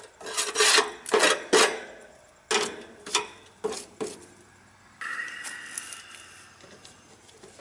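A quick series of sharp metallic clinks and knocks, metal tools or parts being handled. About five seconds in, a faint steady whine starts suddenly and fades away.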